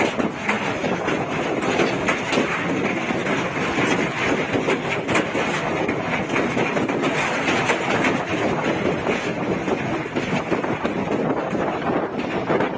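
A vehicle in motion: a steady rumbling run with constant clattering and rattling.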